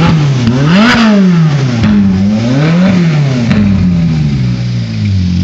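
Ferrari 458 Italia Spider's naturally aspirated V8 revving as the car pulls away. The engine note climbs and falls back several times, highest about a second in and again near three seconds.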